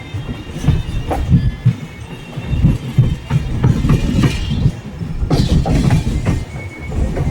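Passenger express train running along the track, its wheels clattering and thumping over the rails in an irregular run of knocks and clicks.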